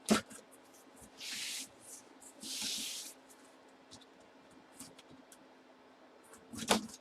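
Cardboard mystery box being opened by hand: two short hissing rips of the packing seal, about a second in and again around three seconds, with a sharp click at the start and a knock near the end.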